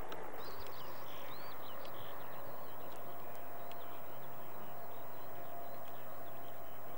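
Small birds chirping in short, high, curved calls, most of them in the first couple of seconds and fewer later, over a steady hiss. A faint steady hum comes in about halfway.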